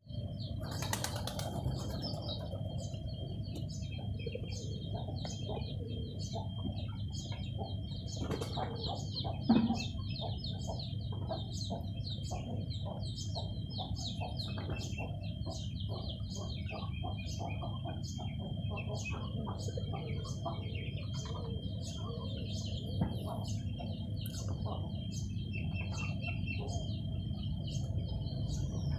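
Small birds chirping continuously over a low steady rumble, with a thin steady high tone running under the chirps. A single knock about nine and a half seconds in.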